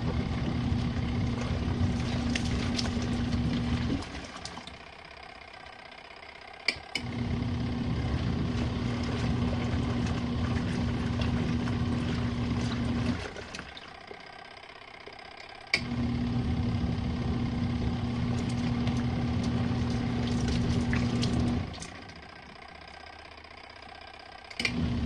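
Small RV washing machine in its wash cycle: the agitator motor hums in spells of about six seconds, stopping for about three seconds between spells. Each restart begins with a sharp click.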